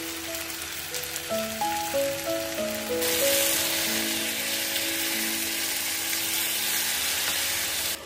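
Diced potatoes frying in oil in a pan: a steady sizzle that grows louder about three seconds in and cuts off sharply near the end.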